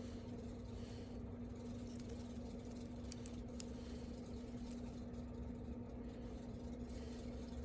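A few faint metallic clinks of a pet-style name tag being handled, over a steady low electrical hum.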